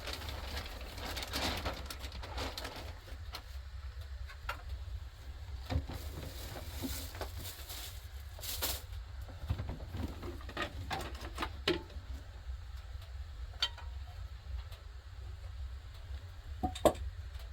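Scattered light clicks and knocks at irregular intervals over a steady low hum, with a sharper knock near the end.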